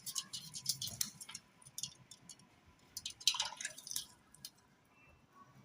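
A parrot making a run of quick, sharp clicks and crackles, then a short call about three seconds in.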